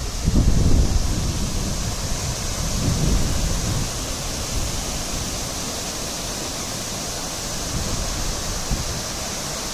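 Waterfall heard close up: a steady, loud rush of falling water. Wind buffets the microphone with low rumbles about half a second in and again around three seconds.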